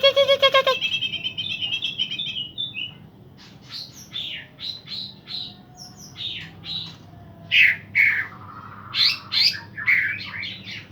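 A pair of cucak ijo (green leafbirds) singing in full song: a rapid pulsed trill fading out over the first few seconds, then a run of short, sharp chirps and whistles, loudest late in the stretch.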